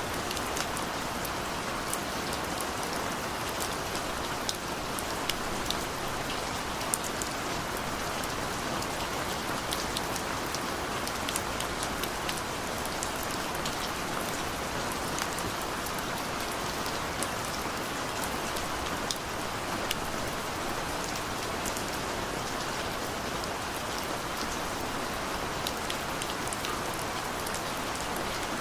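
Steady rain falling, with a constant hiss and many sharp individual drops ticking on a hard surface.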